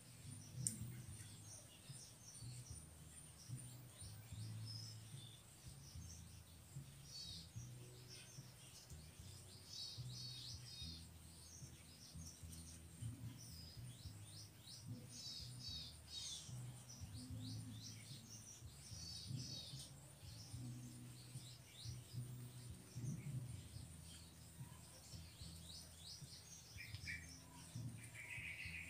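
Small forest birds chirping in short repeated phrases, over a steady thin high insect-like whine and a low background rumble, with a lower, louder call near the end.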